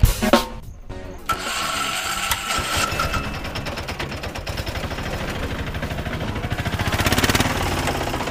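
Small engine running with a fast, steady putter. It starts about a second in, just as music cuts off.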